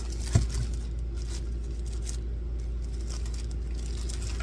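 A single short knock about a third of a second in, over a steady low hum.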